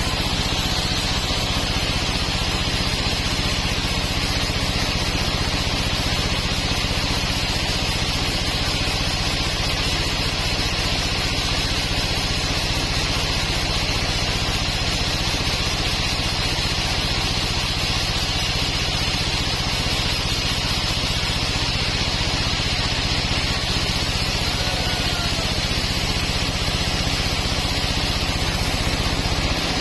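Sawmill machinery running steadily: a constant engine-like hum with a steady hiss above it, unchanging throughout.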